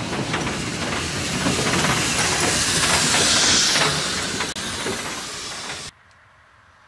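Steam locomotive hissing loudly as it lets off steam. The hiss swells about three seconds in, then cuts off abruptly near the end.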